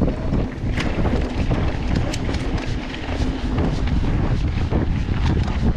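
Wind buffeting the camera microphone on a mountain bike ridden down a dirt trail, over a steady rumble of tyres on the ground. Frequent short, sharp rattles and clicks come from the bike and gravel on rough ground.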